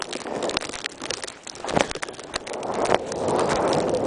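Plastic bag wrapped over the camera crackling and rustling against the microphone as wind blows across it, the rushing getting louder about three seconds in.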